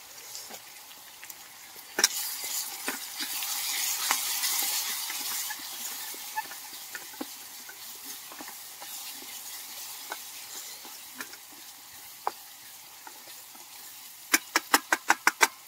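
Onions, garlic and spices sizzling in a small metal camping pot on a butane stove while a wooden spoon stirs and scrapes, with light knocks of the spoon against the pot. The sizzle swells about two seconds in, and near the end comes a quick run of about eight sharp taps.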